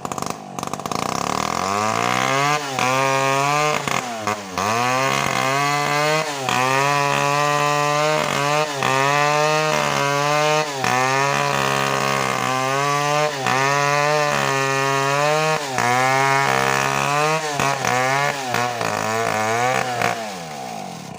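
Two-stroke chainsaw revving up, held at high revs with its pitch dipping and recovering every second or two, then winding down near the end.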